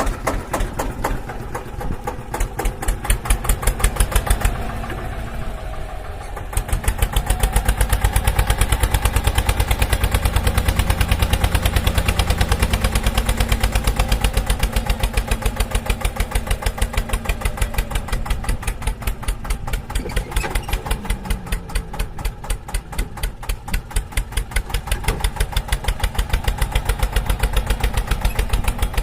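An engine running with an even, rapid pulsing beat, which gets louder about six and a half seconds in.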